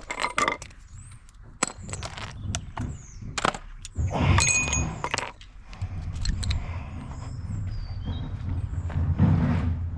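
Irregular clinks and knocks of metal tools and car parts being handled and set down during a car's engine-bay teardown, with a longer, denser stretch of rattling about four seconds in.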